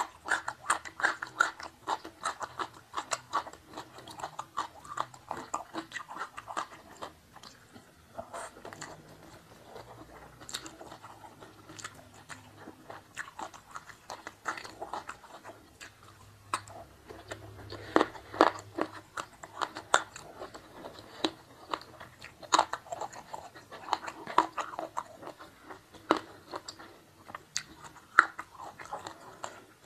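Close-miked chewing with crisp crunches of raw vegetables such as young jengkol and pea eggplants, in runs of quick bites with short pauses between mouthfuls.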